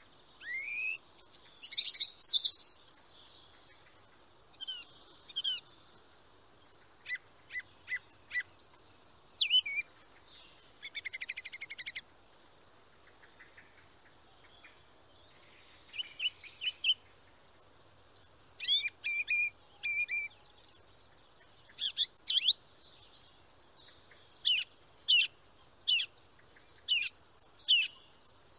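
Small birds chirping and calling on and off: short rising whistles, sharp chirps and quick trills, with a lull about halfway through before the calls pick up again more densely.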